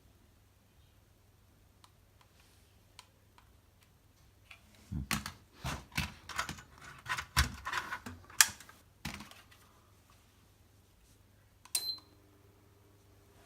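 A few seconds of plastic clicking and clattering, then near the end a sharp click with a short high beep as the electric fireplace switches on from its remote, followed by a faint steady hum.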